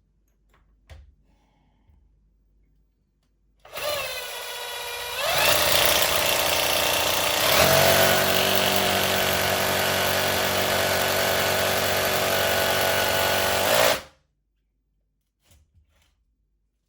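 Hammer drill starting up about four seconds in, speeding up, then drilling steadily into the wall for about ten seconds before stopping suddenly.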